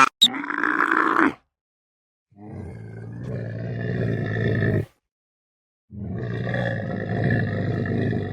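Three separate rough, drawn-out animal calls, each cut off abruptly into silence: a short one of about a second, then two longer ones of about two and a half seconds each.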